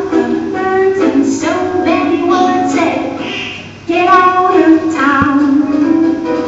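Young voices singing a song in sustained sung phrases, with a brief break between phrases about four seconds in.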